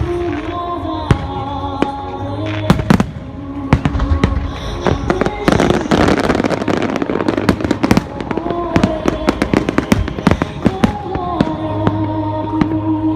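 Aerial fireworks going off in a rapid series of sharp bangs over music with held notes, with a dense spell of crackling from about five and a half to eight seconds in.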